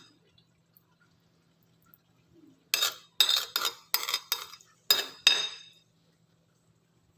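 Cutlery clinking and scraping against a plate while eating: a quiet stretch, then a cluster of about seven sharp, ringing clinks from about three seconds in to past five seconds in.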